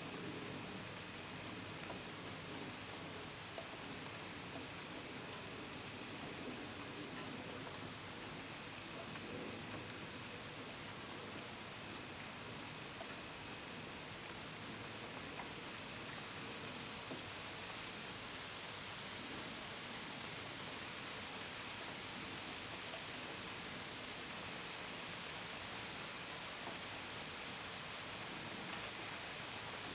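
Steady rain with drops pattering on surfaces, and crickets chirping in a continuous high, slightly pulsing trill.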